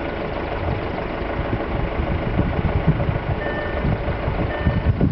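Wind buffeting the microphone over a steady rumble. From a little past halfway, a short high electronic beep repeats about once a second.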